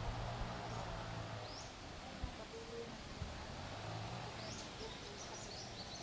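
Outdoor background noise with a steady low hum, and a few short, high bird chirps, most of them near the end.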